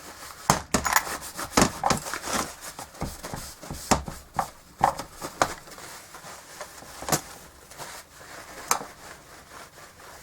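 Irregular clicks, knocks and scraping rubs of hands-on bench work.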